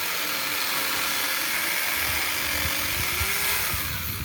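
Variable-speed angle grinder fitted with a chainsaw attachment, running steadily with a high hiss, and a rough low rattle joining about halfway through.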